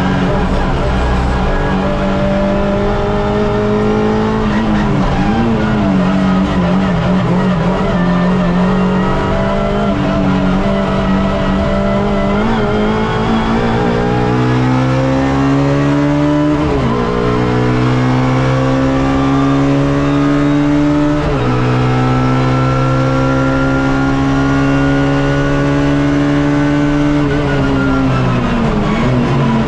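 Suzuki Swift race car engine heard from inside the car under hard driving. Its pitch climbs steadily and drops sharply twice in the middle, as on quick upshifts, then falls away near the end as the car slows.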